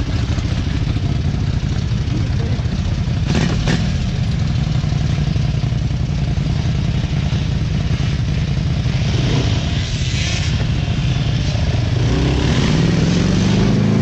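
Off-road vehicle engine running steadily while riding, its note rising near the end as it revs up. A short sharp knock about three and a half seconds in.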